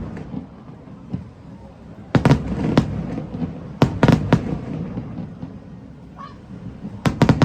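Fireworks shells bursting: clusters of sharp bangs about two seconds in, around four seconds and near the end, with a low rumble between the volleys.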